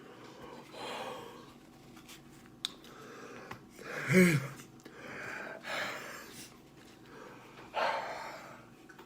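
A man breathing hard in hissing puffs through his mouth, with a short vocal groan about four seconds in: his reaction to the burning heat of ghost pepper chicken wings.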